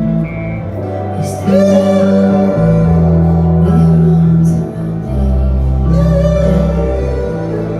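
Live rock band playing, with heavy sustained bass and guitar chords and a female lead vocal. The sound is an audience recording in a large hall.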